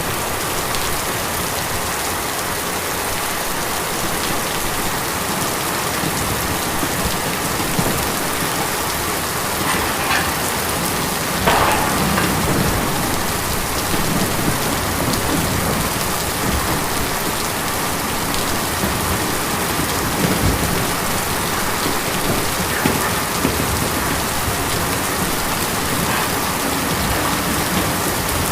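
Steady, dense rain falling on a tin roof, with a brief louder spatter about eleven seconds in.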